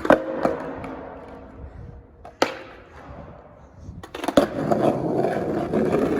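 Skateboard wheels rolling on a concrete garage floor, with a single sharp clack of the board about two and a half seconds in. The rolling then starts again louder from about four seconds, with small clicks as the wheels pass over joints.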